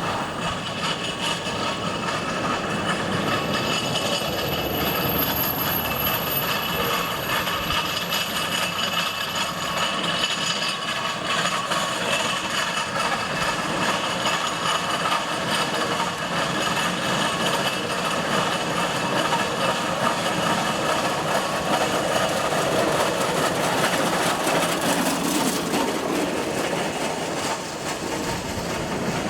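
Steam traction engine running on the road: a steady mechanical noise from the engine and its running gear, with no break.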